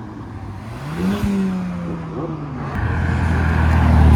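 Passing car engines: one revs up briefly about a second in and then eases off, and a louder, deeper engine comes in near the end as another car approaches.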